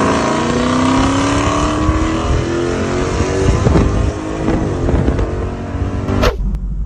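A car accelerating hard at full throttle in a drag race, its engine pitch climbing and then climbing again several times as it pulls through the gears. Near the end the sound cuts off abruptly to a quieter, steady low rumble.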